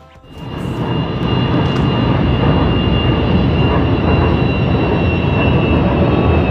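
Light-rail (LRT) train running: a steady loud rumble with a thin, constant high whine over it, rising in from quiet about half a second in.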